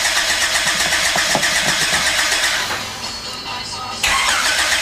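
Swapped-in engine of a 1987 Honda Accord LX-i running loud and raspy with its exhaust not yet hooked up. Its level dips about three seconds in and jumps back up suddenly about a second later.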